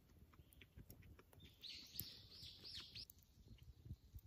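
A bird sings a quick run of about five repeated high notes about a second and a half in, over faint scattered ticks and low rustling.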